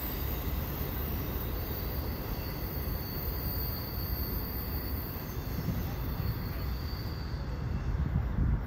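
CSX intermodal freight train's cars rolling past at a distance: a steady rumble of steel wheels on rail, with a faint high-pitched wheel squeal that comes and goes.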